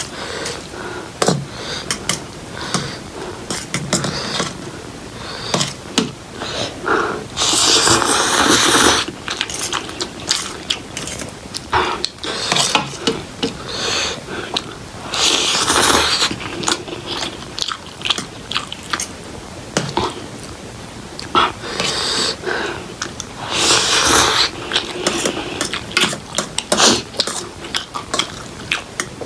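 Close-mic eating sounds of instant Korean ramen noodles: wet chewing and lip smacks throughout, with a few drawn-out slurps, each about a second long.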